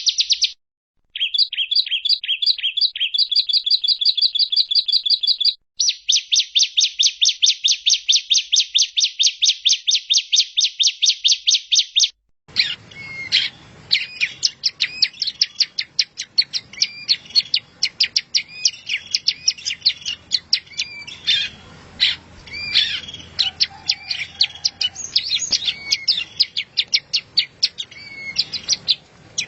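Recorded songbird song spliced together: several clean stretches of fast, evenly repeated trill notes, about seven a second, broken by sudden cuts. From about 12 seconds in, a noisier recording takes over, with varied chirps and trills over a low hiss.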